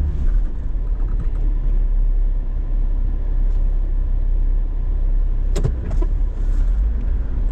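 Vehicle engine running with a steady low rumble, and two short knocks about half a second apart later on.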